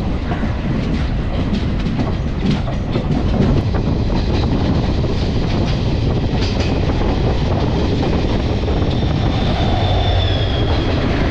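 Passenger train running, heard from an open coach doorway: a steady wheel rumble with clickety-clack over the rail joints and points as it pulls out of the station. Near the end an oncoming train's locomotive passes close alongside on the next track.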